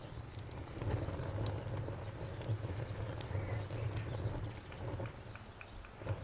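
Campfire crackling with scattered sharp pops, over crickets chirping in a steady pulsing rhythm and frogs croaking.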